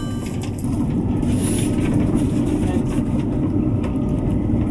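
Steady low rumble of an ICE high-speed train running, heard from a seat inside the passenger cabin.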